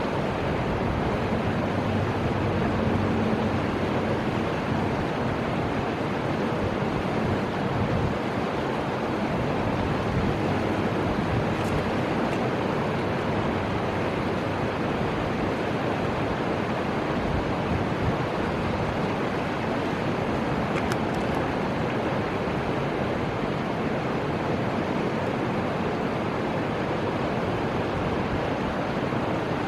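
Steady, unbroken rushing of the Fuji River's flowing water.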